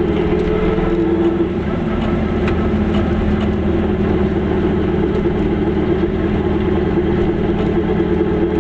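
Car engine running at a steady pace while driving, heard from inside the cabin as an even drone with road noise.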